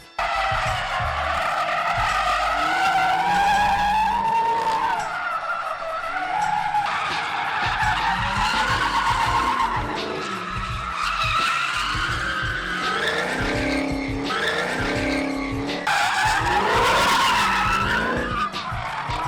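Dodge Hellcat doing donuts: tyres squeal in a long, wavering howl that rises and falls in pitch, with the engine running underneath.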